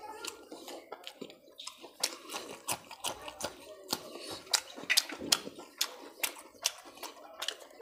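A person chewing a mouthful of chicken curry close to a clip-on microphone: wet, irregular smacking and clicking mouth sounds, many small ones a second.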